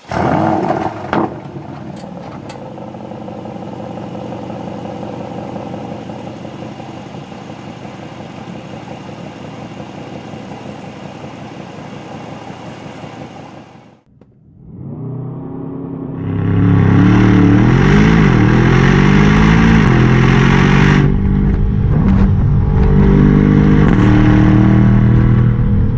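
Aston Martin DBX 707's twin-turbocharged 4.0-litre V8 running: a loud burst in the first second, then a steady idle. After a short dropout about halfway, it comes back louder, revved with the pitch rising and falling several times, then holding steady.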